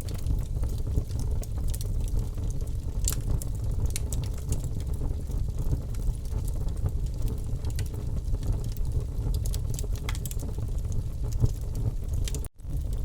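Wood fire in a fireplace crackling: scattered sharp pops and snaps over a steady low rumble of the flames. The sound drops out for an instant near the end.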